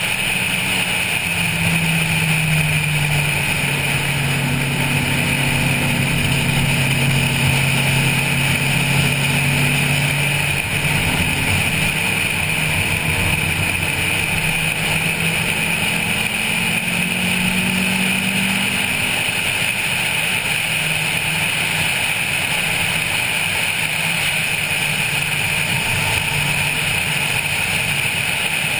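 Stock Honda Civic 1.5 engine pulling at speed, its note shifting in pitch with gear and throttle and climbing higher about two-thirds of the way through. It sits under a steady rush of wind over the roof-mounted camera.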